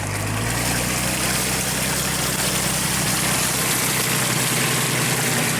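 Off-road 4x4's engine running at steady revs, its pitch stepping up slightly about half a second in, under a constant hiss.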